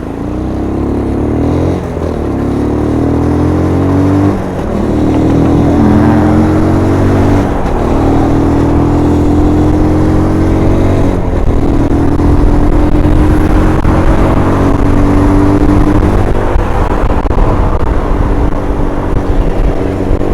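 125cc MGB ATX adventure motorcycle engine accelerating through the gears. The revs climb and drop back at each of four gear changes, then hold fairly steady at cruising speed from a little past the middle.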